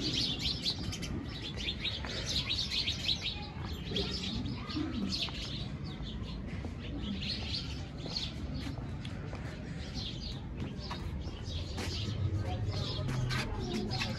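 Many small birds chirping over and over, over a low steady rumble.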